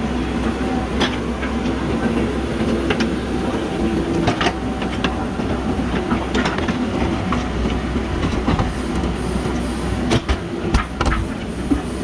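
JCB backhoe loader's diesel engine running steadily, with irregular sharp knocks and clanks from the digging machinery.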